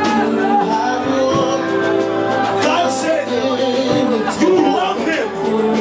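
Gospel church music: long held chords with voices singing over them and scattered percussion hits.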